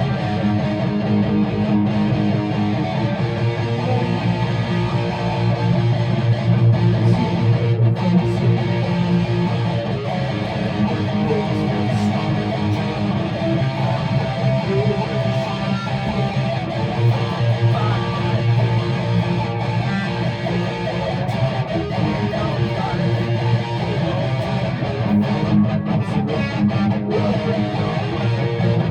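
Guitar strumming chords steadily.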